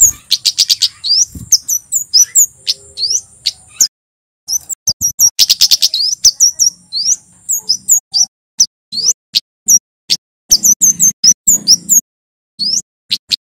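Male kemade flowerpecker singing: rapid, sharp, high-pitched chips and short fast rattling trills in bursts, cut by two brief silences, with a thin steady high tone behind the first half.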